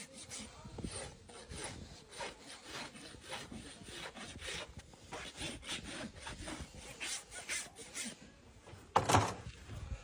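Hoof rasp filing a horse's hoof in quick, repeated scraping strokes, about two a second. A louder scrape or knock comes about nine seconds in.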